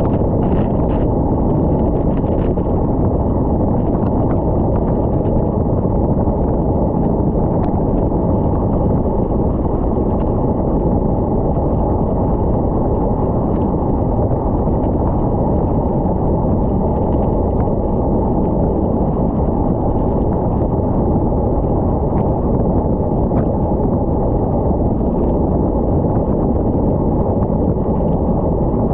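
Steady, loud wind rush buffeting the camera's microphone from a bicycle going fast downhill, a dense low noise without breaks.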